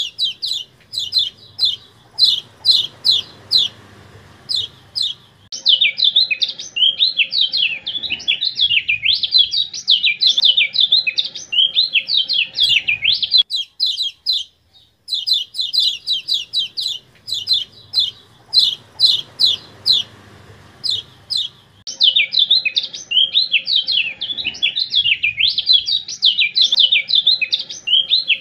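Kecial kuning (white-eye) recording, digitally modified: a rapid run of sharp, high 'ciak' chirps gives way to a fast, jumbled twittering song. After a short pause about halfway, the same sequence repeats.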